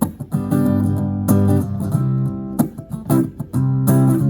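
Guitar strummed in a steady rhythm, chords ringing between strokes that fall about every two-thirds of a second.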